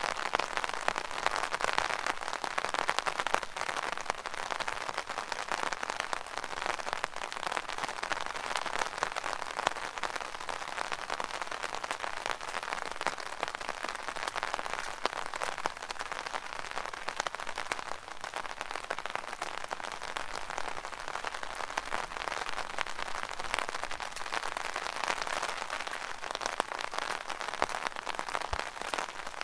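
Rain falling on an umbrella: a steady, dense patter of countless small drop ticks on the canopy.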